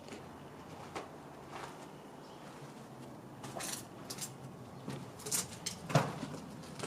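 Scattered light knocks and rustles of someone moving about and handling things in an empty room, with one sharp knock about six seconds in.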